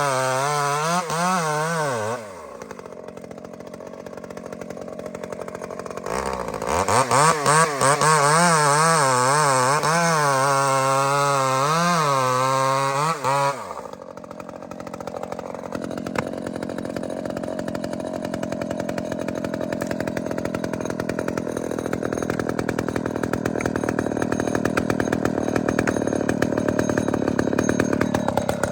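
Chainsaw cutting a conventional notch into a trunk full of embedded steel, its engine pitch wavering up and down as it loads and unloads in the cut. It drops off about two seconds in, comes back at full throttle for several seconds, then settles into a steadier run for the second half.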